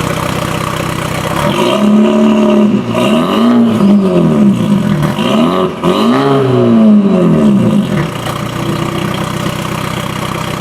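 BMW 330e's turbocharged 2.0-litre four-cylinder engine breathing through a catless downpipe and M Performance muffler kit: idling, then revved up and down a few times, the pitch rising and falling, before settling back to idle.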